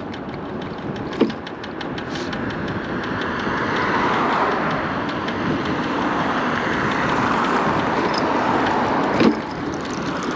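Electric scooter riding over pavement: rolling and wind noise that swells in the middle, broken by two sharp knocks, about a second in and near the end.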